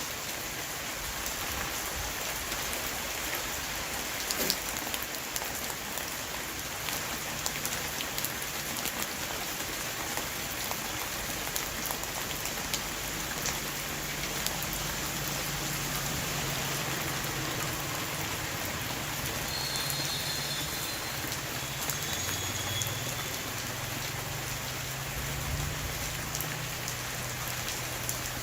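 Rain shower falling on a roof: a steady, dense patter of raindrops.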